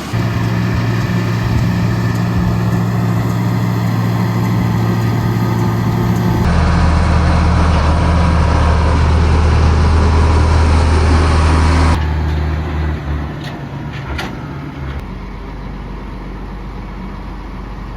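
Engine running steadily in three clips edited together. The pitch drops lower at the first cut, about six seconds in. After the second cut, about halfway through, the engine is quieter, with a few sharp clicks soon after.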